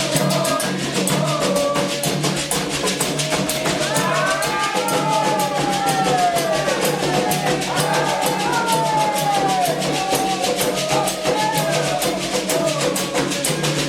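Candomblé ritual drumming on atabaque hand drums in a fast, dense rhythm, with a chant for Xangô sung over it, the voices strongest from about four seconds in.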